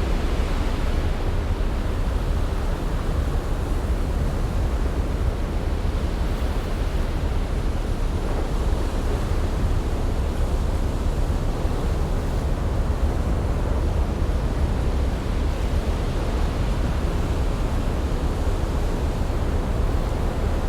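Steady ocean ambience: an even rushing noise with a deep rumble underneath, without distinct wave surges.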